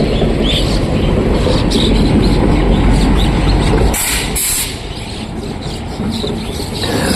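A train rumbles, with house sparrows chirping over it. About four seconds in the rumble falls away and a brief loud hiss sounds in two parts.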